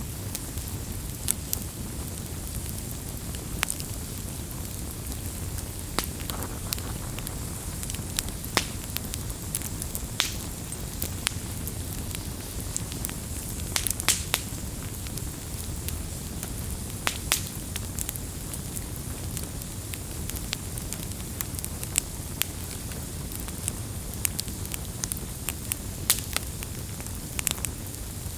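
Campfire burning, wood crackling and popping in sharp irregular snaps over a steady low rumble of the flames.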